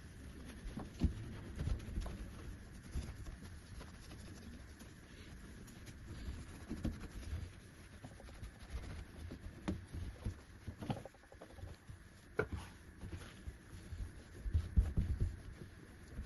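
Irregular soft thumps, taps and clicks of household objects being handled and set down, a dozen or so spread unevenly, the loudest near the end.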